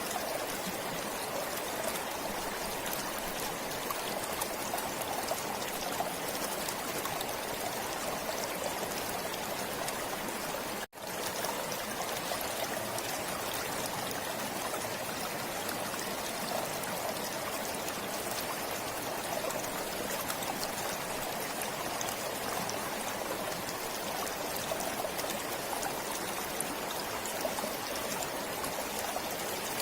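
Forest stream flowing steadily, an even rush of water with trickling. About eleven seconds in, the sound cuts out for a split second and comes straight back.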